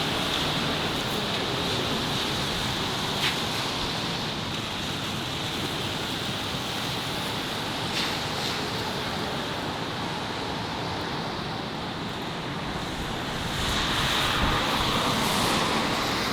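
Steady city street ambience: a wash of traffic noise with a couple of small clicks, swelling louder near the end as something passes close.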